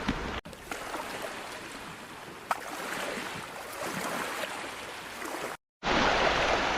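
Steady wash of seawater on a beach, with a few small clicks; the sound drops out briefly twice, at edit cuts.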